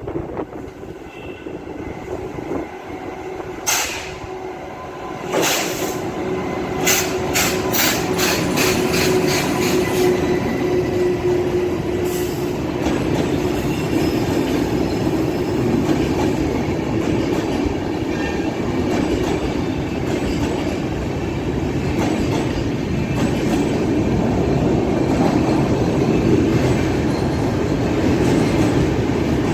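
Express passenger train rolling into the station: a quick run of sharp wheel clicks over rail joints several seconds in, then a steady rumble of coaches rolling past that grows slowly louder.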